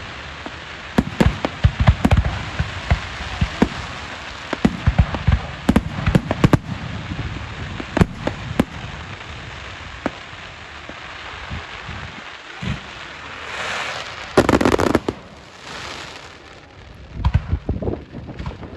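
Fireworks going off: a rapid run of bangs and crackling pops, easing briefly, then a hissing rush about fourteen seconds in and a few more bangs near the end.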